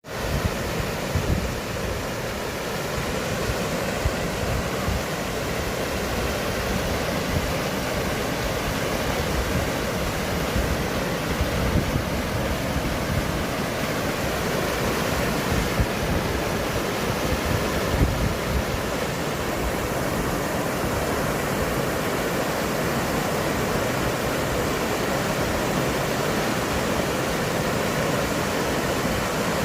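Steady rushing noise with a gusty low rumble underneath, no clear pitch.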